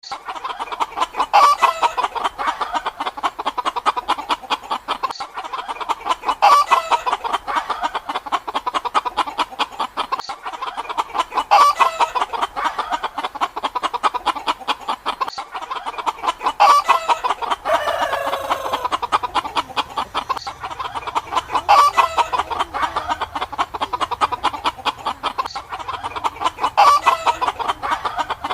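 Chickens clucking continuously, with a louder call standing out about every five seconds.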